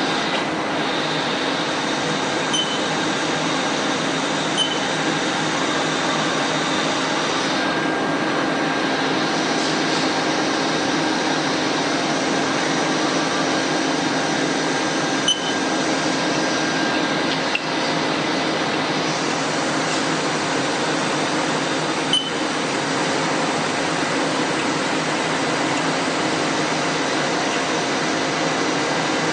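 Steady drone of running machinery, a constant whirring hum with faint whining tones held through it, and a few faint clicks.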